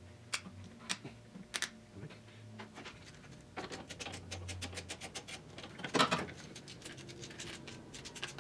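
Small metal parts clicking and scraping as a bracket and cover are handled and fitted around an ignition switch. First a few separate clicks, then a quick run of light rattling clicks, with one louder knock about six seconds in.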